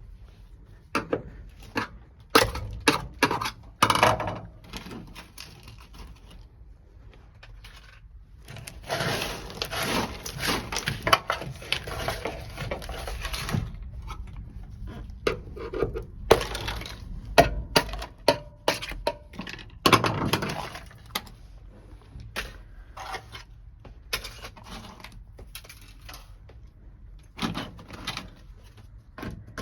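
Dry-ice-frozen sound-deadening mat cracking and breaking off a car's sheet-metal floor, with many sharp knocks and cracks and loose pieces clattering. There are a few seconds of dense scraping and rattling about nine seconds in, and a shorter burst near twenty seconds.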